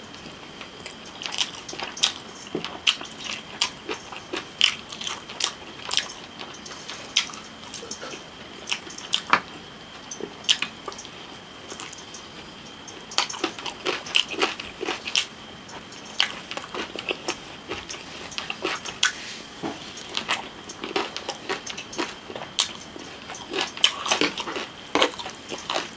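Close-miked eating of fried chicken drumstick: wet chewing, lip smacks and bites in irregular clusters, with a couple of short lulls. A faint steady high tone sits underneath.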